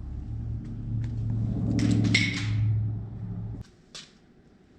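A machine motor hums steadily at a low, even pitch, with a brief hiss and clatter about two seconds in, then cuts off suddenly after about three and a half seconds.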